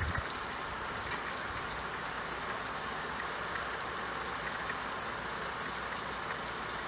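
Steady rain falling, an even hiss with a few faint drip ticks, and a brief low thump at the very start.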